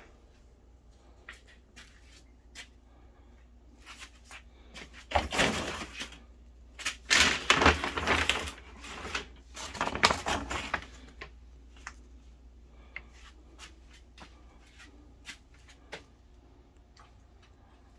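Dry cat kibble rattling as it is poured out, loudest in a stretch from about five to eleven seconds in, with scattered clicks and taps of handling before and after.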